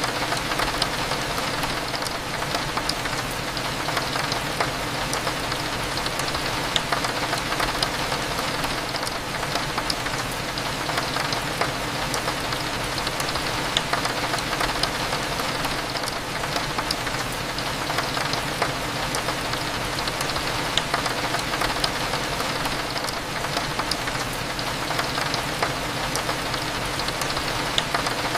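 Steady rain falling on a window, with scattered small drop ticks over a low, continuous cafe hum.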